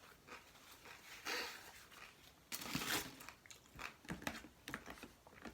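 Close-up chewing and crunching of a mouthful of taco with a lightly crisped tortilla, in irregular bursts.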